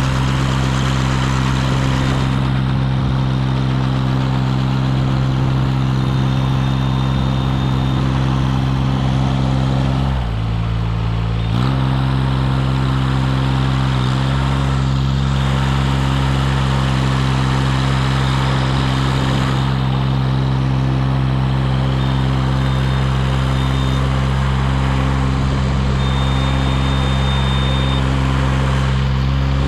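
Engine of a CMC 90-foot tracked aerial lift running steadily. About ten seconds in it dips briefly in pitch and level, then recovers.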